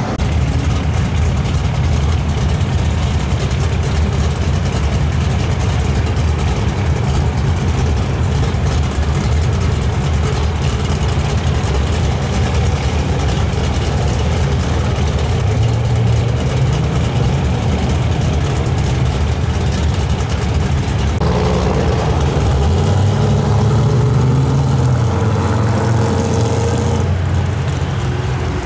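Classic car engines running in slow street traffic, among them a mid-1960s Chevrolet Chevelle Malibu, idling with a steady low sound. About two-thirds of the way through, a higher-pitched engine note joins and drops away near the end.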